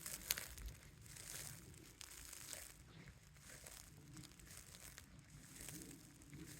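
Footsteps rustling and crunching through dry leaf litter on a forest floor, a soft crunch about once a second.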